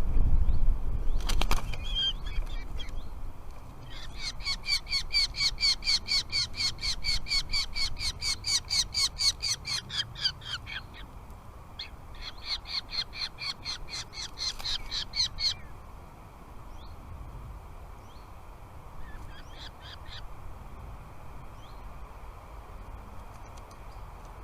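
Falcon calling in rapid repeated notes, about four a second, in two long runs with a short break between them, then a few faint calls. A low rumble and a sharp click come in the first couple of seconds.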